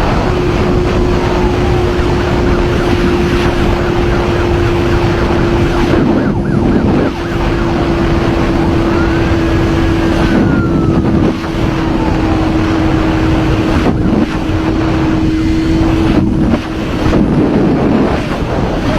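Motorcycle riding at a steady speed, its engine holding one tone that sinks very slowly, under heavy wind noise. A few faint wails that rise and fall sit higher up.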